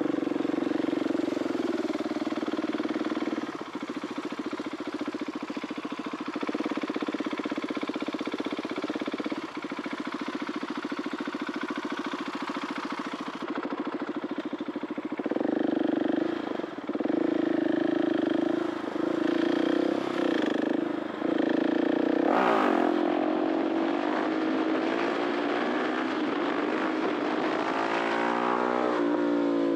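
2021 KTM 690 SMC R's 693cc single-cylinder four-stroke engine through an Arrow titanium exhaust, heard from the rider's seat with wind noise. It runs at a steady speed for about half the time, then goes through a string of quick throttle cuts and surges, and near the end the revs rise and fall repeatedly.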